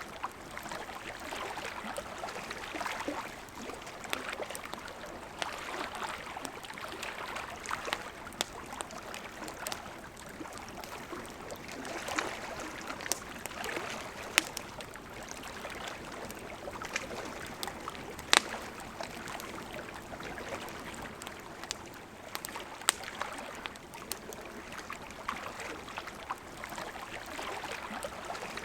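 Steady rush of a flowing river with a campfire crackling over it: scattered sharp pops and snaps, the loudest about two-thirds of the way through.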